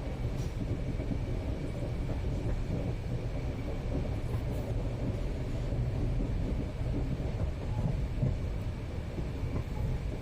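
Steady rumble of an Indian passenger train running, heard from inside the coach, with a faint steady high tone over it.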